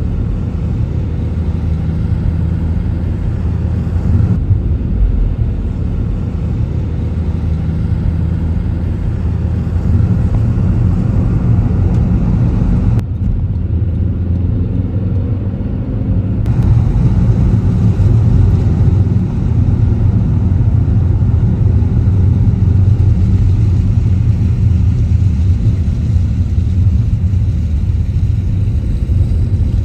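Car driving, with a steady low rumble of engine and tyres on the road and a faint, even engine hum.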